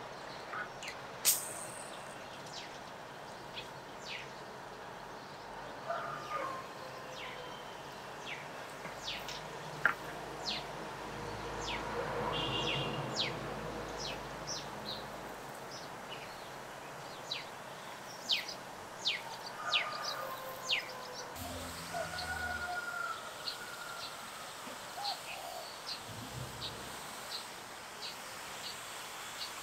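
Small birds chirping, short high chirps scattered throughout over a faint steady background. A low rumble swells and fades around the middle, and a few dull low thuds come later.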